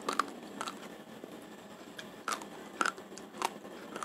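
Raw Rojolele rice grains being chewed, giving a few irregular sharp crunches.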